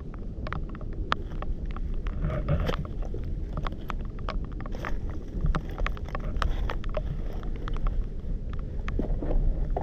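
Steady low rumble with wind buffeting the microphone, and many short sharp clicks scattered through it.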